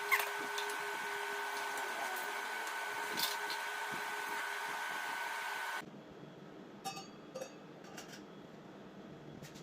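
Steady whine of a small motor with fixed tones, ending abruptly a little under six seconds in, followed by a few light clicks and taps.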